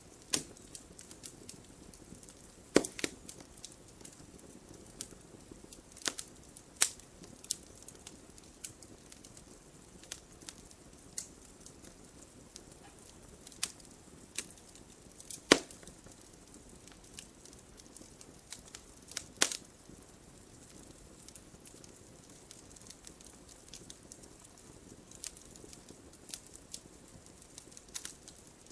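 Wood fire in a fireplace crackling, with irregular sharp pops from the burning logs over a soft, steady hiss of flame. A few pops stand out louder, the strongest about halfway through.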